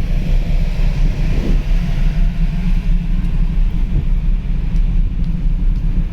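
Steady low rumble of a large car ferry under way, with a fainter even hiss over it.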